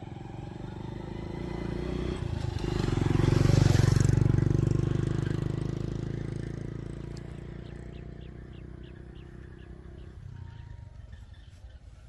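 A motor vehicle passes close by: its engine swells to its loudest about three and a half seconds in and then slowly fades away. Near the end a run of faint, quick high ticks, about four a second, can be heard.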